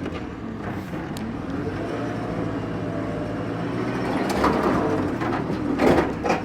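Telehandler's diesel engine running under load, its pitch rising about two seconds in, with metal clanks and knocks over the last two seconds as it strains to lift the truck.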